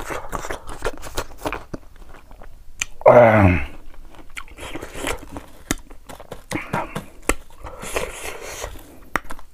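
A person chewing crunchy slices of raw green mango dipped in salt, with many short crunches, and about three seconds in a loud groan that falls in pitch, a reaction to the sour fruit.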